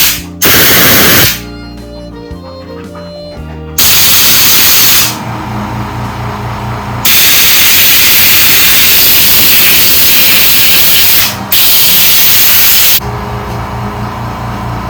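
Pressurised spray hissing into a clogged jet of a plastic Briggs & Stratton carburetor, blowing it clear, in four blasts: a short one near the start, another about four seconds in, a long one of about four seconds, then a last short one. Background music plays underneath.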